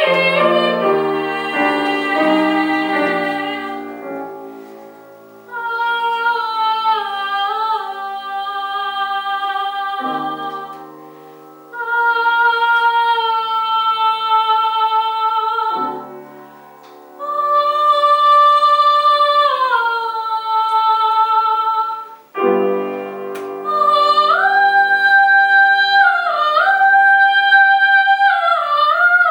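A female voice singing in a classical style with piano accompaniment: long, high held notes with vibrato in phrases, separated by short breaks, over piano chords.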